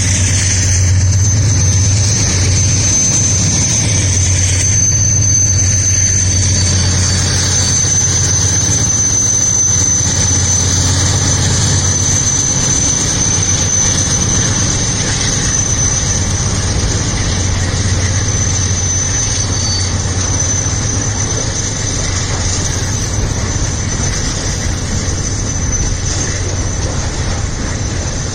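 Freight train of loaded pig-iron wagons rolling by on departure, with a continuous high wheel squeal over the rumble of the wheels. A low diesel locomotive engine drone runs beneath, strongest in the first half.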